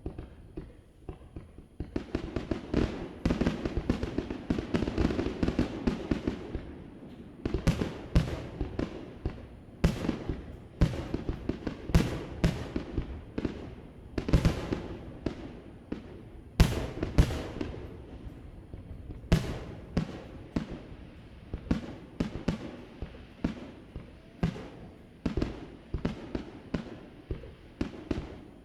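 Aerial fireworks bursting: a few scattered pops, then from about two seconds in a dense, irregular run of booms and crackling reports with a rolling rumble beneath.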